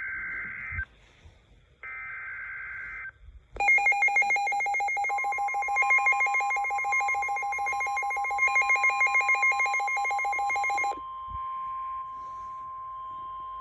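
NOAA Weather Radio alert tones: two short bursts of SAME header data screech, then a loud, rapidly pulsing electronic alarm beep. A steady one-pitch warning alarm tone, the 1050 Hz NWR tone, joins about five seconds in and holds on after the beeping stops about eleven seconds in.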